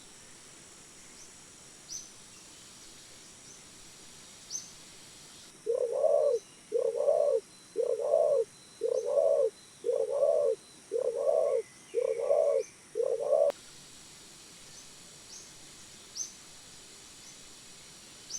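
A bird giving a steady series of eight mid-pitched calls, about one a second, with a few faint, short high chirps before and after.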